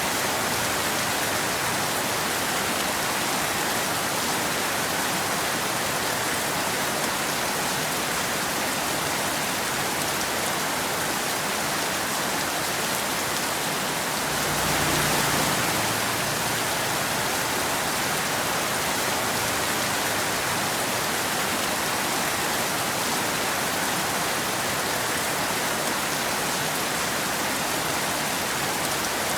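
Steady rain falling, an even hiss of drops. It swells briefly louder about halfway through, with a little added low rumble.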